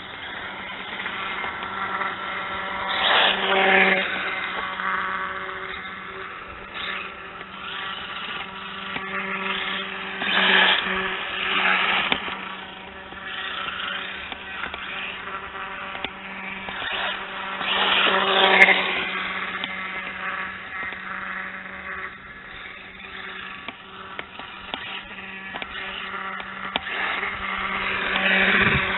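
X-Rider BX4003 RC dirt bike running, its motor and tyres swelling louder as it speeds up or passes close about 3, 10 and 18 seconds in, over a steady hum.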